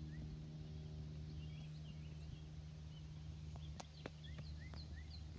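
Small birds chirping in many short, rising notes over a steady low hum, with a few soft clicks about four seconds in.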